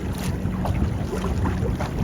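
Wind noise on the microphone with water lapping and splashing against a kayak hull, a steady rumble scattered with small irregular splashes.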